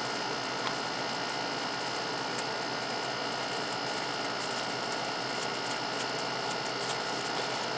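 Steady background hiss with a faint hum, unchanging throughout and with no distinct knocks or rattles.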